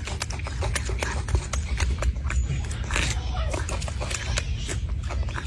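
Monkey eating fruit: a dense run of short crunching, smacking clicks over a steady low rumble.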